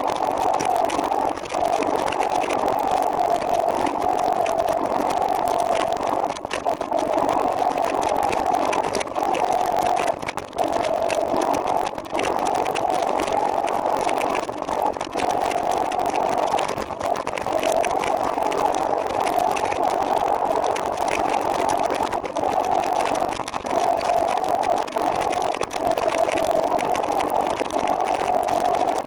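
Steady rushing ride noise, wind and road noise on the microphone of a moving recumbent trike, with brief dips every few seconds.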